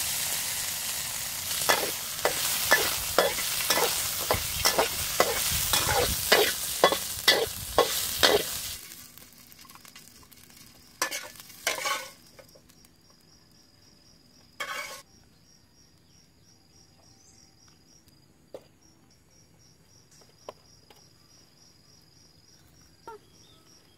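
Garlic, shallots and red chillies sizzling as they fry in a steel wok, stirred with a metal wok spatula that clicks against the pan about twice a second. The frying stops abruptly about nine seconds in, leaving a few scattered knocks and faint, high insect chirring.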